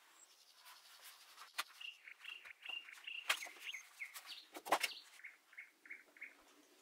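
A small bird chirping: two quick runs of short high notes, about four a second, with a pause between them. A few sharp clicks or taps fall among the chirps, the loudest just before the second run.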